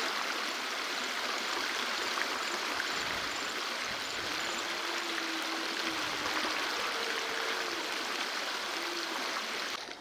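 Swollen River Nyando floodwater rushing: a steady, dense rush of water that cuts off shortly before the end.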